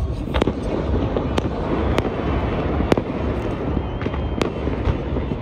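Fireworks going off: about five sharp bangs at irregular intervals over a steady background din.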